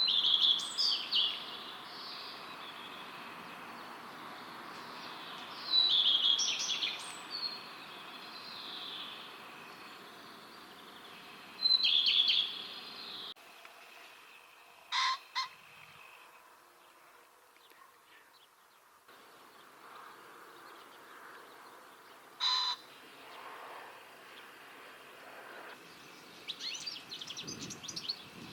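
Common redstart singing short song phrases, repeated every few seconds. After a cut, a common pheasant gives two short crowing calls several seconds apart. Near the end, a European goldfinch starts a rapid twittering song.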